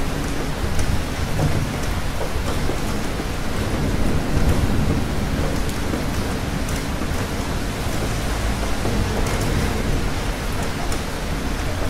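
Steady rain falling, with a continuous low rumble of thunder beneath it.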